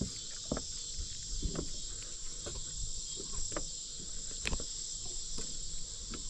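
Steady high-pitched insect chorus, with a few scattered light knocks.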